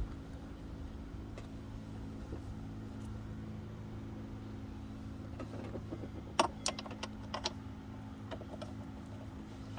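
Ford Escape's 3.0L V6 engine idling steadily, with a quick cluster of sharp metallic clicks and taps about six and a half seconds in.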